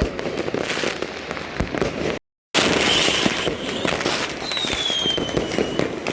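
Dense, continuous popping and crackling of many fireworks and firecrackers going off at once, with a whistle falling in pitch from about four and a half seconds in. The sound cuts out completely for a moment a little after two seconds.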